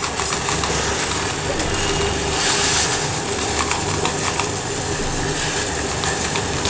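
Pan of tea with water and tea powder heating on a stove, giving a steady rushing, sizzling boil.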